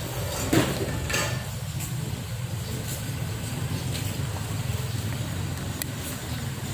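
Steady low rumble of vehicle engines, with a few sharp clicks about half a second and a second in.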